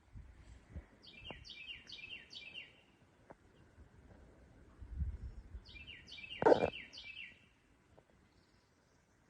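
A songbird singing short phrases of four or five quick, high, downward-sliding notes, twice. A brief thump about six and a half seconds in.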